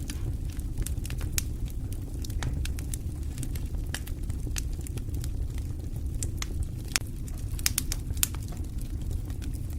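Wood fire in an open fireplace crackling, with irregular sharp pops and snaps over a steady low rumble of the flames.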